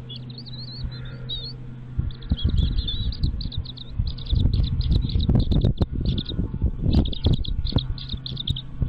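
Nestling chicks giving rapid high-pitched begging chirps, a quick run of short calls that starts about two seconds in and keeps going. Low thumps and rustling from movement in the nest sound underneath.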